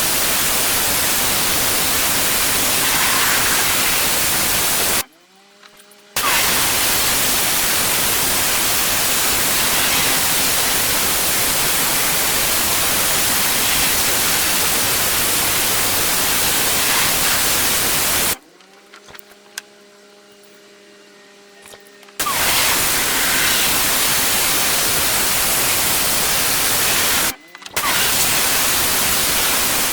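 Pressure washer spraying, a loud steady hiss of the water jet on paving. It cuts out three times: briefly about five seconds in, for about four seconds around the middle, and for a moment near the end. Each time only the machine's steady low hum is left.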